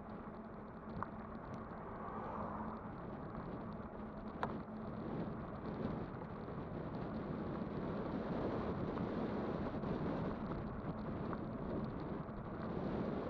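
Electric bike being ridden: steady rush of tyre and wind noise with a faint steady hum, growing a little louder in the second half, and a few sharp clicks or rattles, the sharpest about four and a half seconds in.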